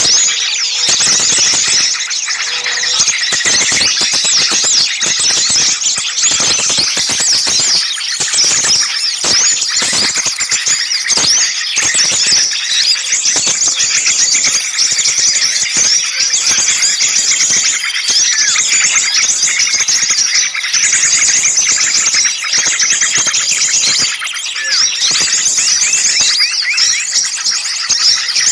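Dense chorus of many small songbirds calling at once, a bird-lure mix of agitated, scolding alarm calls: rapid high chirps, squeaks and short trills overlapping without a break.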